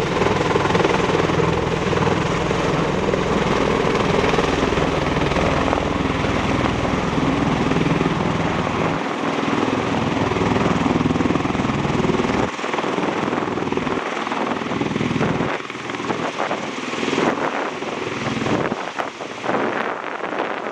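MV-22 Osprey tiltrotor in flight: loud, continuous rotor and engine noise. The deep low rumble drops away about nine seconds in, and the sound fades a little after that.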